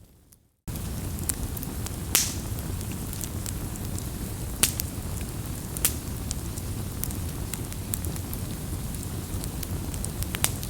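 Campfire burning: a steady low rumble of flames with scattered sharp pops and crackles of burning wood, the loudest pops about two seconds in, near the middle and near the end. The sound drops out briefly at the very start and then starts again abruptly.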